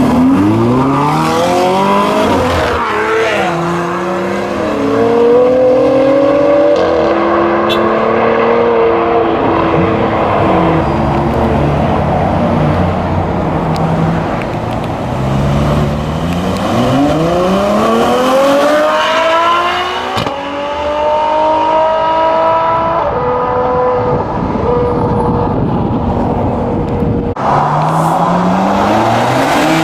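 Sports car engines accelerating hard through the gears with loud exhausts. The engine pitch climbs steeply and drops back at each gear change, in several separate pulls.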